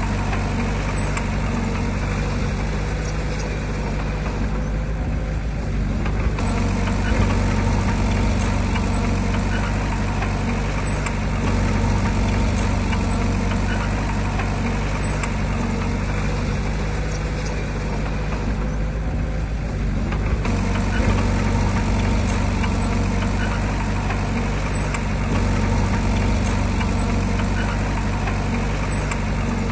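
Diesel engine of heavy earthmoving machinery running steadily, with a low, even drone that eases slightly twice.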